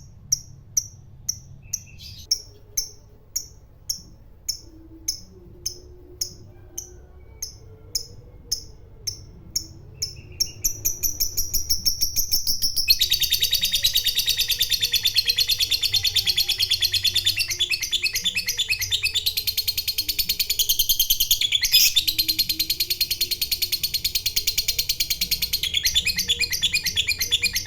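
Fighter lovebird calling: sharp high chirps at about two a second, quickening about ten seconds in, then from about thirteen seconds a long unbroken rapid chatter. This is the 'ngekek panjang', the long ngekek song that fanciers prize in a fighter lovebird.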